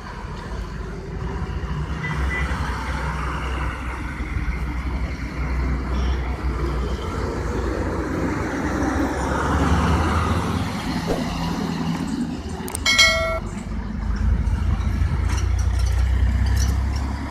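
Diesel engine of a heavy vehicle, a bus or lorry, running low and steady as it works around a hairpin bend, swelling and easing. A short vehicle horn blast sounds about 13 seconds in, the loudest moment.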